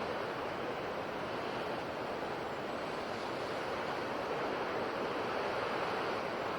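Ocean surf washing on a shore: a steady, even rush of breaking waves.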